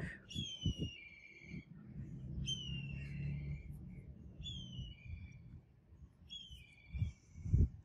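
A bird calls four times, each a short falling call about two seconds apart, mixed with knocks and bumps of the sword parts being handled, the loudest knock near the end.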